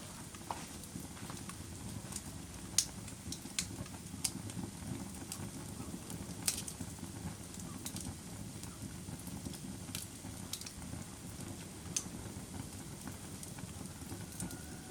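Wood fire burning in a fireplace: a steady low rumble of flames with irregular pops and crackles, a few of them sharper, louder snaps.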